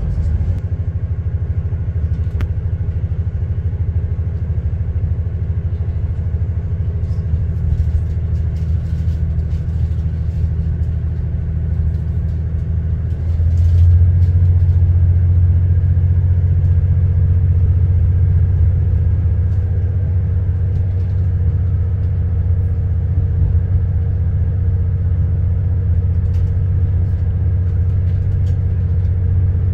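Steady low rumble of a diesel passenger train's engine, heard from inside the carriage. It grows louder about 13 seconds in, when a steadier hum joins it.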